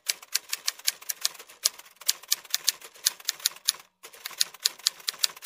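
Typewriter keystroke sound effect: a fast run of sharp clacks, about six or seven a second, with a short pause about four seconds in.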